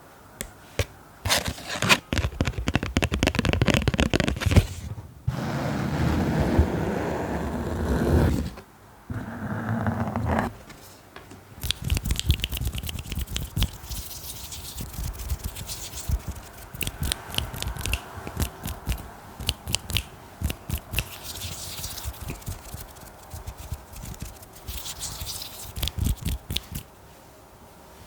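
Close-miked ASMR scratching and tapping on objects: quick taps, then two stretches of steady scratching, then a long run of rapid light tapping.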